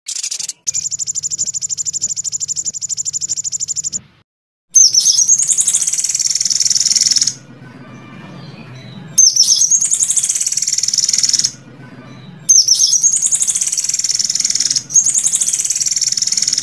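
Recorded songbird song: a fast, even high trill for about three seconds, then four loud, high phrases of repeated notes with falling sweeps, each lasting two to three seconds, over a faint low hum.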